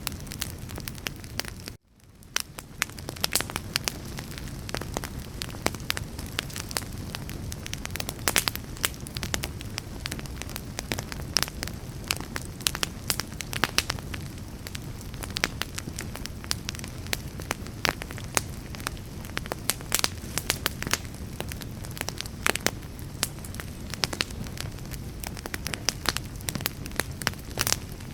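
Wood fire burning, with frequent sharp crackles and pops over a steady low rumble. The sound drops out briefly about two seconds in, then fades back up.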